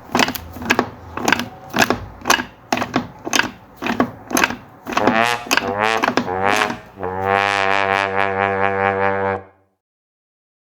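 Brass music: a quick run of short staccato notes, then one long held note near the end that cuts off suddenly.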